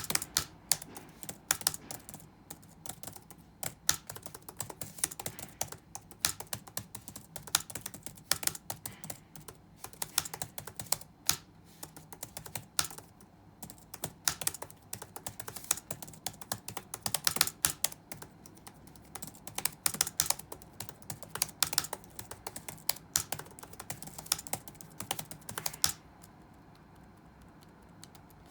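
Computer keyboard being touch-typed in quick irregular bursts of keystrokes, with a few louder key hits. The typing stops about two seconds before the end, leaving a low steady room hum.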